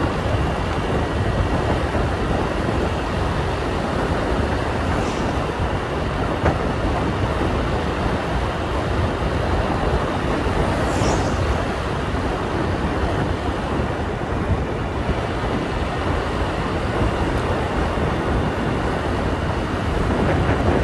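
Steady rumble of a motorbike ride: engine, tyres and wind on the microphone blended together, with a brief high-pitched sound about halfway through.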